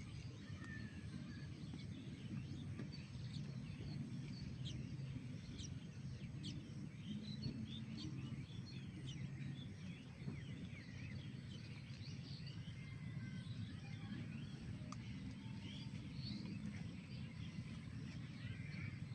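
Several small birds chirping and calling in short, scattered notes over a steady low rumble of outdoor background noise.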